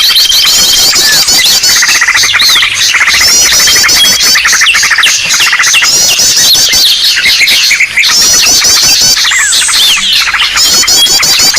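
Loud, dense chorus of many small birds chirping, trilling and squawking over one another, played as a bird-lure recording to attract birds. It opens with a held high whistle, and quick repeated twittering phrases run throughout.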